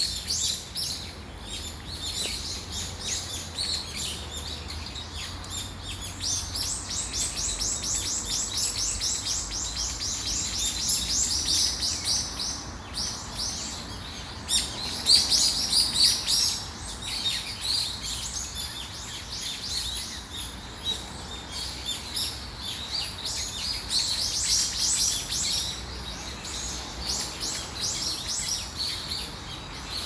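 Songbirds chirping and twittering in quick high notes throughout, with a long fast trill of repeated notes from about six to twelve seconds in.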